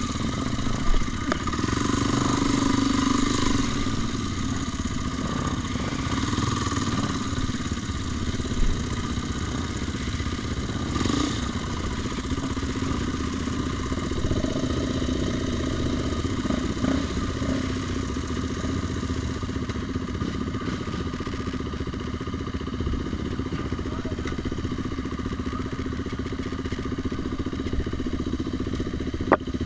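Vehicle engine running steadily, with a constant drone.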